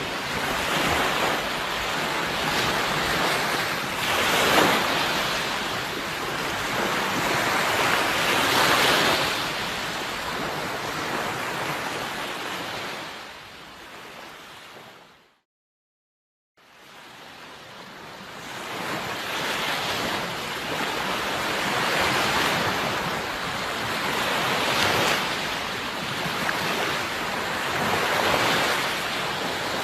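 Sea waves washing onto the shore, surging and ebbing every few seconds. About halfway through the surf fades out to a second of silence, then fades back in.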